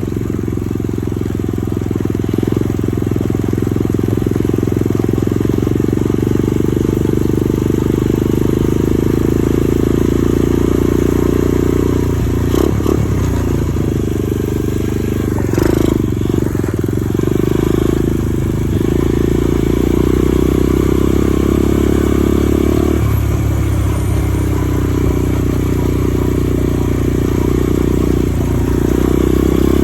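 Dirt bike engine running steadily while being ridden. Its note dips and shifts briefly several times.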